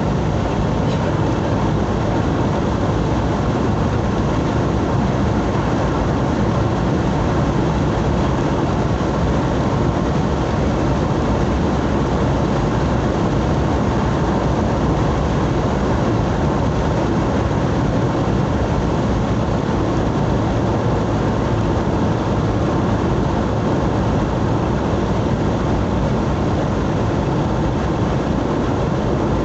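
Steady engine and road noise of a vehicle driving along, an even rumble that holds the same level throughout.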